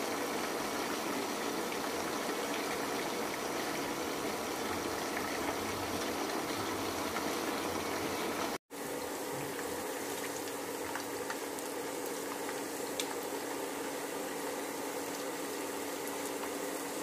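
Eggplant wedges deep-frying in hot oil: a steady sizzle with small scattered pops, cutting out for an instant about halfway through.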